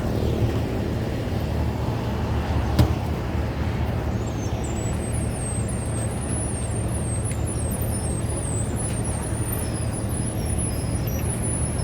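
Steady low rumble of engines running, with one sharp knock about three seconds in and a thin, high warbling chirp from about halfway on.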